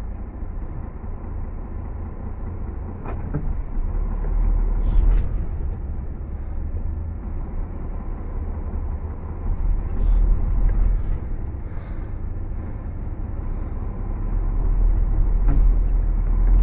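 Heavy truck's diesel engine working hard under load, swelling three times as it strains to tow a second truck out of deep snow, without enough pull to free it.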